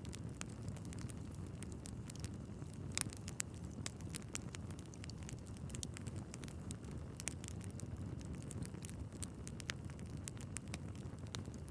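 Wood fire burning in a fireplace: a steady low rumble of flames with frequent irregular crackles and pops from the logs, a few sharper pops standing out.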